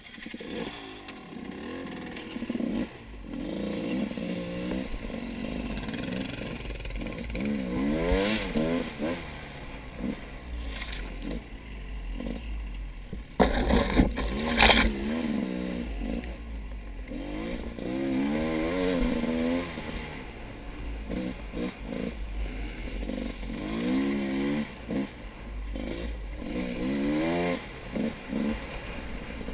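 Motorcycle engine revving up and easing off repeatedly as it rides. Two loud clattering bangs come about halfway through.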